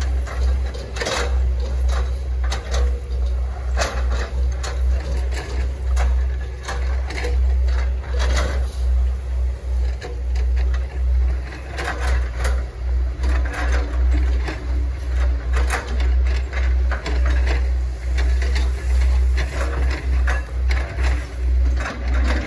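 Hitachi ZX110 MF excavator's diesel engine running steadily, with frequent irregular sharp cracks and knocks as the machine works.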